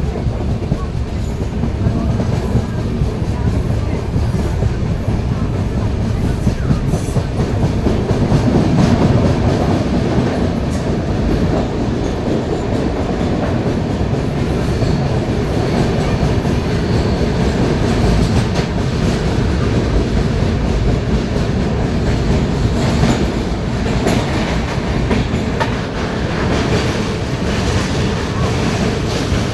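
Train running along the track: a steady rumble with scattered clicks of the wheels over rail joints.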